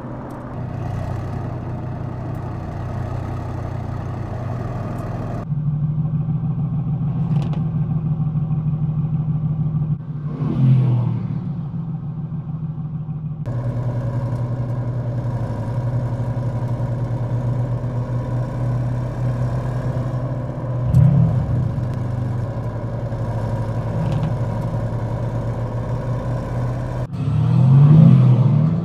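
Car engines running with a steady note, heard in several spliced clips whose sound changes abruptly about five, thirteen and twenty-seven seconds in. Brief revs rise around ten and twenty-one seconds and again near the end.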